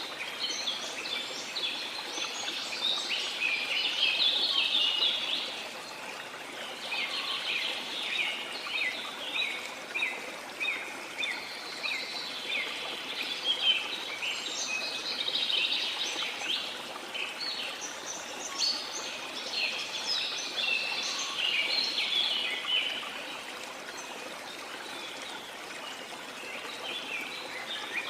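Birds singing in repeated phrases of quick, high chirping notes, several seconds each with short gaps between, over the steady rush of a flowing stream.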